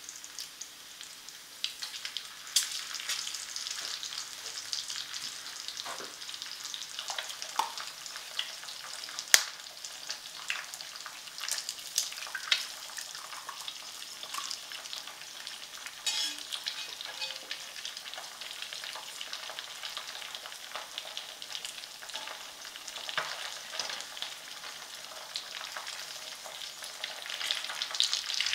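Bacon and eggs frying in a cast bronze fry pan: a steady sizzling hiss dotted with short crackles and pops of spitting fat, with one sharp click about nine seconds in.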